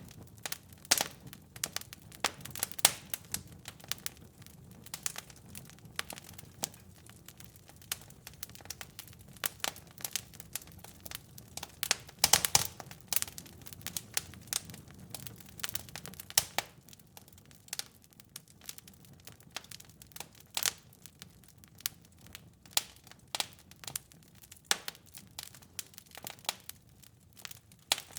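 Wood fire crackling in a fireplace: irregular sharp pops and snaps over a low rumble of the flames, with a thick run of pops about twelve seconds in. The low rumble drops away after about sixteen seconds, leaving mostly scattered pops.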